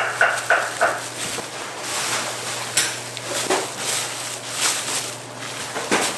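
Kitchen work sounds: scattered clinks and knocks of utensils and dishes over a steady low hum. A quick run of about four short, evenly spaced tones comes in the first second.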